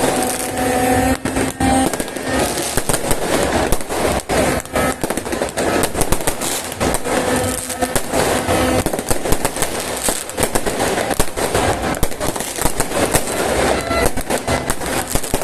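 Many fireworks and firecrackers going off in rapid, continuous crackling and popping. A held pitched tone sounds over them near the start and again about halfway.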